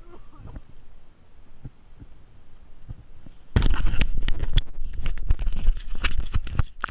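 Wind buffeting the microphone: a low rumble with dense crackling knocks, starting suddenly about halfway through and loud from then on.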